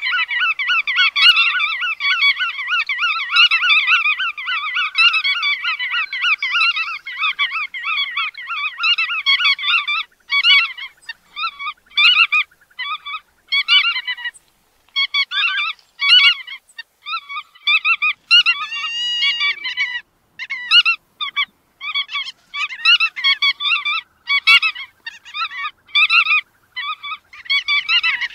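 Bar-tailed godwits calling: a dense, unbroken run of rapid repeated calls for about the first ten seconds, then shorter groups of calls with brief pauses between them.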